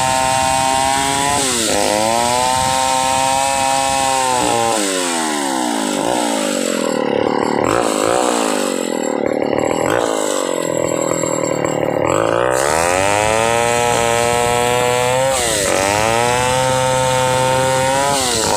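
Stihl 070 single-cylinder two-stroke chainsaw running at high revs while cutting wood. Its pitch sags briefly a few times and drops lower and rougher for several seconds in the middle before climbing back up.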